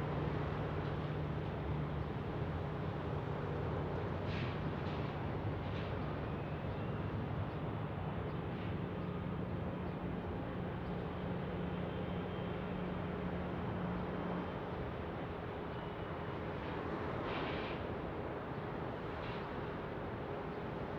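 Jet airliner engine noise at an airport: a steady rumble with a low hum that eases slightly after the middle.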